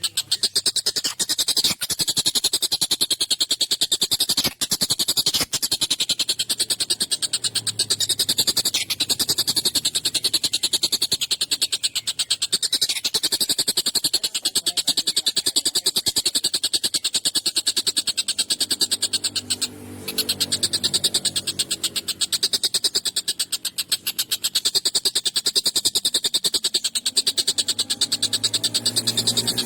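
Tengkek buto (collared kingfisher) calling without a break: a fast, harsh, rasping chatter of rapid notes, pausing once for a moment about twenty seconds in.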